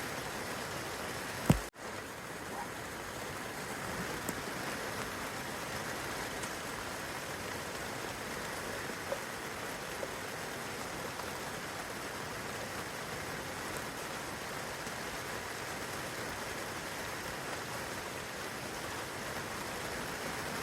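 Steady rainfall on foliage and grass, an even hiss with a few faint drip ticks. A single sharp click about a second and a half in, with a momentary dropout just after it.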